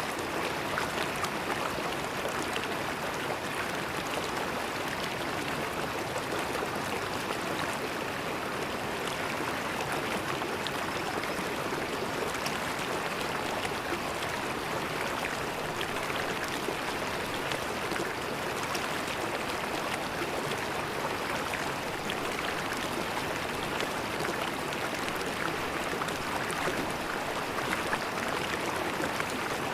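River water flowing over stones, a steady rushing and gurgling with fine splashes, unchanging in level.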